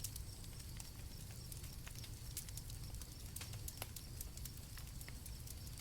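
Campfire crackling: irregular sharp pops and snaps of burning wood over a soft low rumble.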